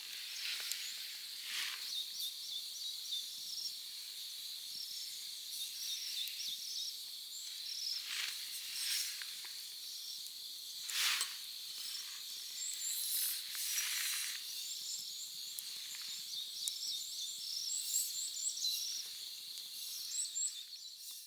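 Night insects chirring steadily in a high, shrill band, with small repeated chirps above it. A few short crackles sound now and then.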